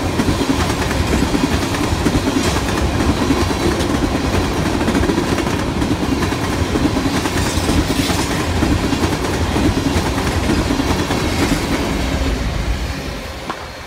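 Freight train of tank cars rolling past close by: the loud, steady rumble of steel wheels on the rails, with some clicking. It fades near the end as the last cars go by.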